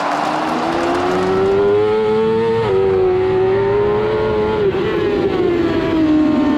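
Racing motorcycle engine running at high revs. Its pitch rises slowly over the first few seconds, holds, then falls away toward the end.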